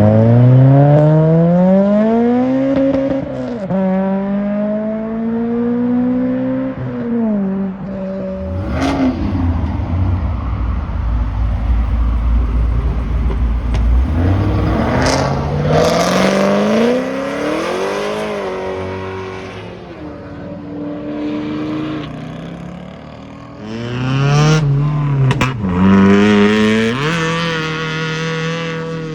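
Boosted (forced-induction) cars accelerating hard, one after another. Engine pitch climbs and drops back at each gear change, with a few sharp cracks in between.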